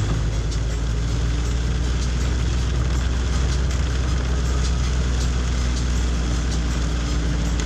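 Steady low drone of a car driving on wet roads, heard from inside the cabin, with the even hiss of heavy rain over it.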